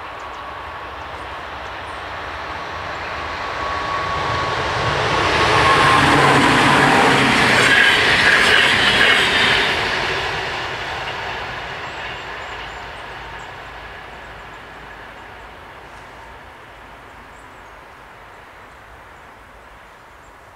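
Electric passenger train approaching and passing, the rumble of its wheels on the rails building to a peak about six to ten seconds in and then slowly fading away. A faint whine drops slightly in pitch as the train comes close.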